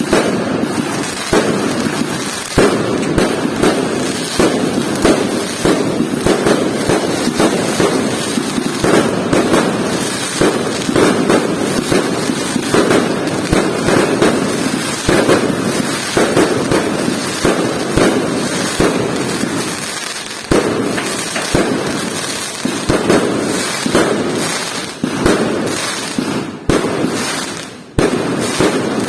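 Fireworks going off without pause: a dense run of overlapping bangs and crackles, with a brief lull shortly before the end.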